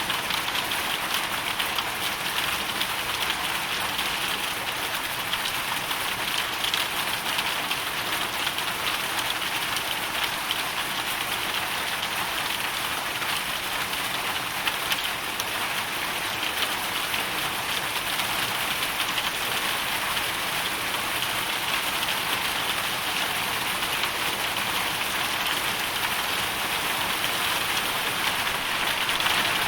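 Hailstorm: hail and rain falling steadily, a dense, even patter of countless small impacts.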